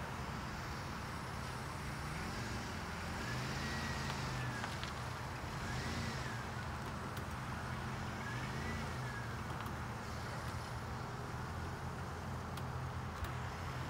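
Tow vehicle's engine running at low speed under light load as it pulls a car on a strap, with a steady low hum. Three short squeaks that rise and fall in pitch come in the first half.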